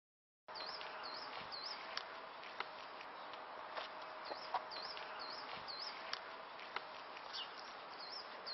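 Outdoor ambience that starts abruptly about half a second in: a steady background hiss with a small bird repeating short chirps in quick runs of two or three, and a few light clicks.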